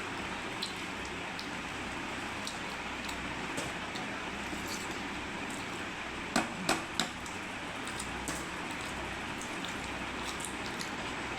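A person eating chicken-feet curry with rice: small wet chewing and mouth clicks over a steady background hiss, with three sharper clicks close together about six and a half to seven seconds in.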